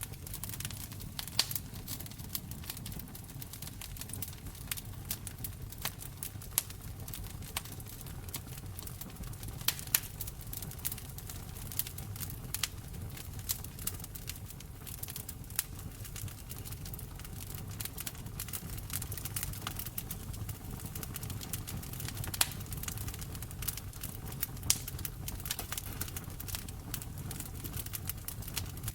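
Wood fire in a fireplace crackling, with irregular sharp snaps and a few louder pops over a steady low rumble of the flames.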